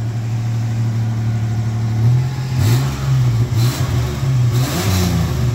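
1989 Mitsubishi Pajero's V6 engine idling steadily, then revved in a run of quick throttle blips from about two seconds in. It runs through newly fitted stainless steel extractors that replaced a cracked, warped exhaust manifold, with no exhaust leak now.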